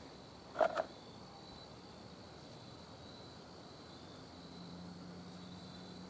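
Crickets chirring steadily in the background. About half a second in there are two short, louder sounds close together, and a low steady hum comes in after about four seconds.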